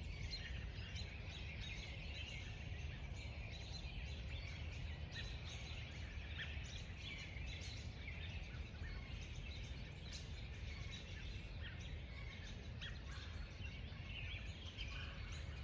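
Many birds of several kinds chirping and singing together in a continuous mixed chorus of short, high calls and trills, over a low steady rumble.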